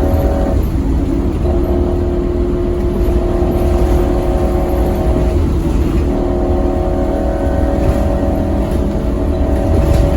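Scania K270UB6 Omnilink bus's diesel engine running hard under load, with a steady engine note and deep rumble. The note breaks off briefly about half a second in and again around five seconds in.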